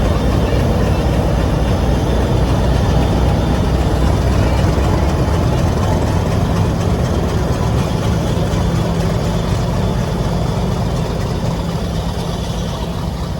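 Diesel locomotive engine running with a steady, heavy low hum as it pulls a train out of the station, easing off a little near the end.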